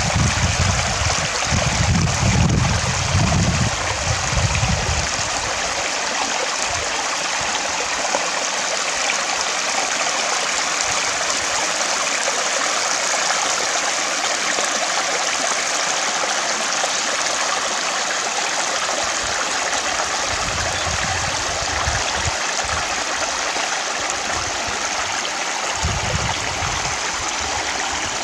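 Water stream running steadily, an even rushing hiss, with bouts of low rumble in the first few seconds and again in the last several seconds.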